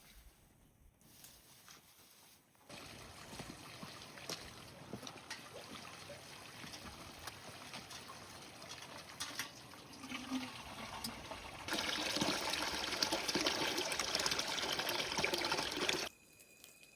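Water trickling and pouring, louder for a few seconds in the second half, with sudden starts and stops.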